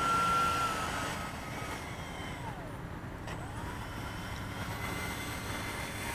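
Twin 64mm electric ducted fans of a model A-10 jet whining at a steady pitch, fading away about a second in, then briefly dropping and rising in pitch again near the middle, over a low steady rumble.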